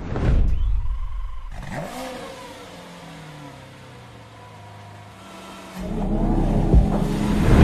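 Ford Mustang engine starting with a loud flare that dies down to a lower run, then revving up harder about six seconds in as the car pulls away.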